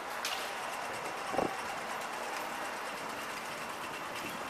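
Steady running noise of a Metro suburban electric train. There is a short sharp click about a quarter second in, and a brief downward-sliding tone about a second and a half in.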